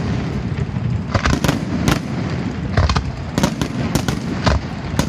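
Fireworks display: sharp bangs and crackles at an uneven, rapid pace over a continuous low rumble of shells bursting.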